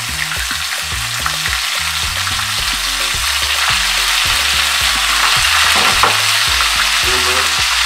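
Battered calamari rings frying in vegetable oil heated to about 350°F in a skillet: a loud, steady crackling sizzle that slowly grows louder.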